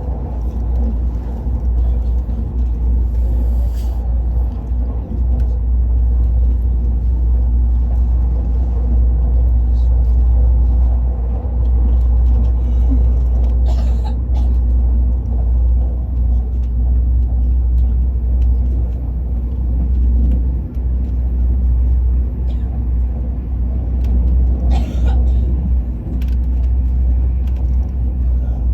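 Steady low rumble of a moving Al Boraq high-speed train heard from inside the carriage, with a few brief clicks and knocks over it.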